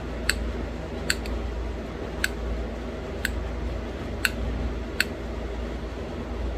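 Sharp little clicks of flakes popping off a thin green novaculite flake as it is knapped into a small bird point, about one a second, seven in all.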